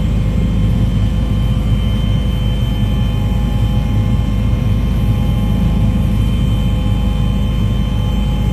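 Aircraft engine noise: a loud, steady drone with a few thin, steady whining tones riding on it.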